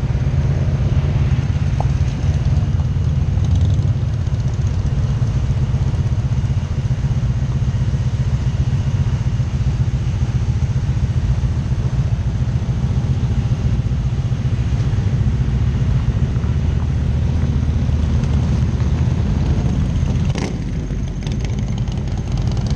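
Motorcycle engine running steadily, a low drone that eases off slightly about twenty seconds in, where a few short clicks sound.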